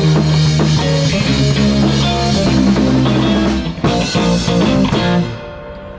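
Live rock band with electric guitar, bass and drum kit playing the last bars of a song. There is a short break a little before four seconds in, then a final loud chord that stops about five seconds in and rings away.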